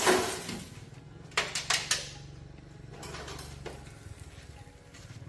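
Metal clanking and knocking, as of tools or metal parts being handled: a loud clank with a short ring at the start, four quick knocks about a second and a half in, then a few lighter knocks around three seconds in.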